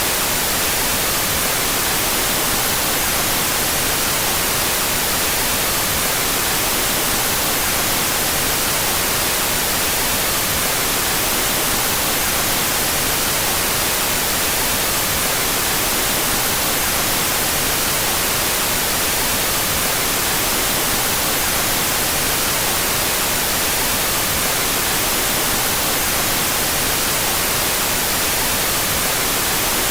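Steady generated white noise, played with its stereo channels out of phase: an even hiss, brightest in the treble.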